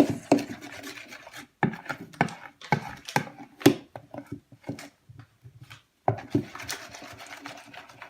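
Slime being mixed in a bowl right after baking soda is added: irregular knocks and scrapes of a utensil against the bowl, with two brief pauses.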